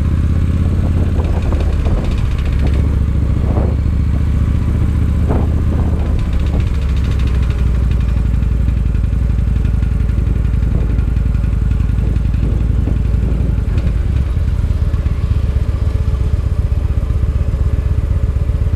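Victory Highball motorcycle's V-twin engine running at low, steady revs, with a few sharp knocks in the first several seconds. The rider hears something loose on the outside of the engine and puts the noise down to valves and cam chain needing adjustment.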